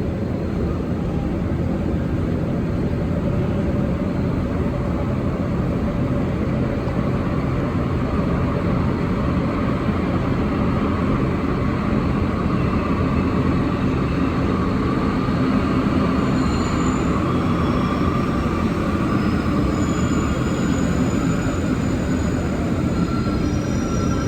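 Inside a rubber-tyred Alstom NS-74 metro car running between stations: a loud, steady rumble of the running gear, with thin high whining tones coming in over the second half.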